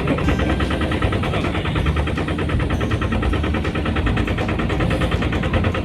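Small boat engine running steadily close by, with a rapid, even chugging beat.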